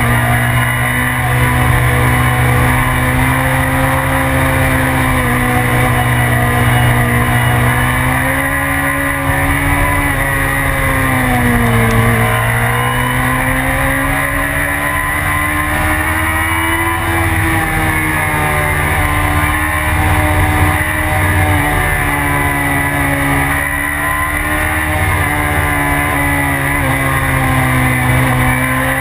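BMW S1000RR inline-four engine running hard at speed, heard from on board with steady wind rush. Its pitch sags about twelve seconds in as the bike slows, then climbs again over the next few seconds and holds high.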